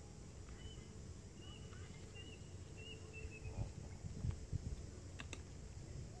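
Quiet outdoor ambience under a low, uneven rumble, with a small bird chirping a run of short high notes in the first half. A couple of sharp clicks come a little after five seconds in.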